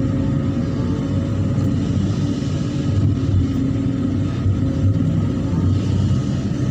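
Hydraulic excavator's diesel engine running steadily, a low, even drone.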